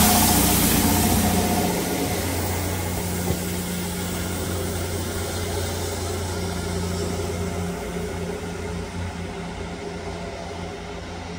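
Diesel multiple unit train moving away, its low engine drone and rail noise fading steadily into the distance.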